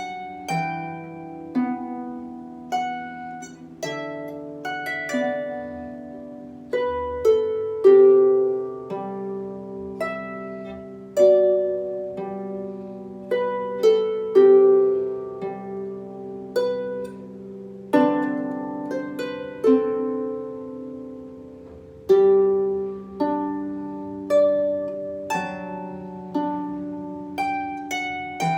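Solo harp playing a slow, simplified arrangement of a melody: single plucked notes and chords, each ringing on and fading, over a few sustained bass notes.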